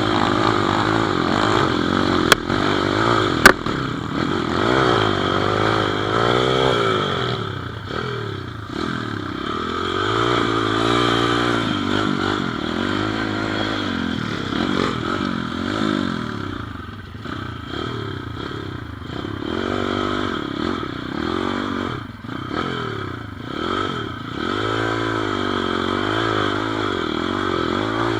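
Pit bike engine running under way, its pitch rising and falling over and over as it revs up and eases off. Two sharp clicks are heard a little after two seconds and again about three and a half seconds in.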